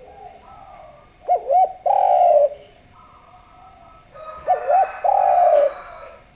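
Spotted dove (derkuku/tekukur) cooing its call twice. Each call is two short quick notes followed by one long, loud coo, with fainter cooing in between.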